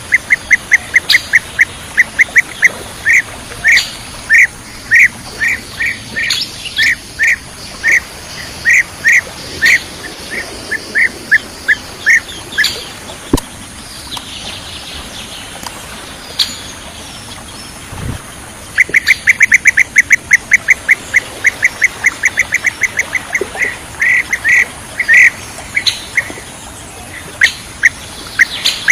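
Bee-eater calls: a long series of short, clipped notes, a few per second. About halfway through they pause for several seconds, then return as a faster, rapid run of notes.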